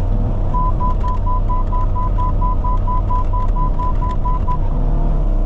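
Mini excavator's diesel engine running steadily, with an electronic warning beeper in the machine sounding rapid, even beeps at one pitch, about four a second, from about half a second in for about four seconds.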